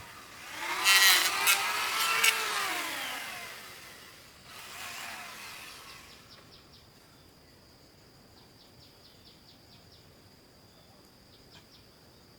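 A small engine revving up and falling back, loudest in the first three seconds, with a weaker rev near the middle, then dying away. After that only a faint steady high-pitched tone with light ticking remains.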